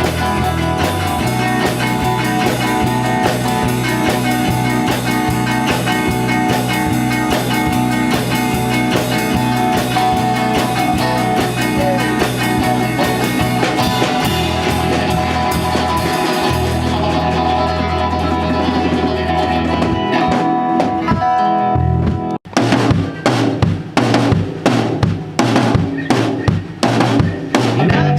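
Small rock band playing an instrumental passage on electric guitar, bass and drum kit, with no singing. About 22 seconds in the music cuts off abruptly and a different recording starts, with busier drum hits.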